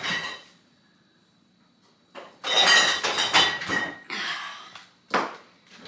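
Kitchen dishes and utensils being handled: a clink at the start, then a stretch of clattering and scraping with some ringing about two and a half seconds in, and a sharp knock near the end.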